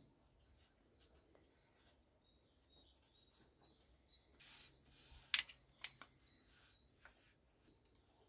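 Faint birdsong, short high chirps, with a few light clinks and taps of a serving spoon on dishes; the sharpest clink comes a little after five seconds in.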